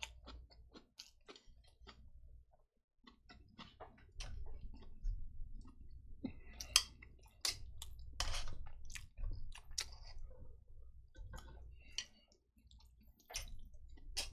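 Close-miked chewing of Chapagetti jjajang noodles with wet mouth clicks. Around the middle, a run of louder sharp sounds as chopsticks stir and lift the saucy noodles in the pan.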